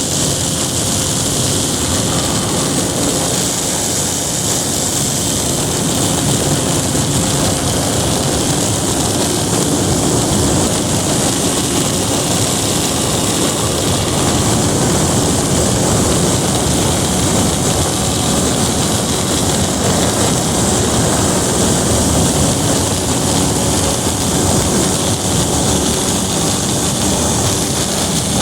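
Propeller and motor of a small flying craft running steadily at a constant pitch, heard close up as if recorded on board, with a continuous hissing rush of air.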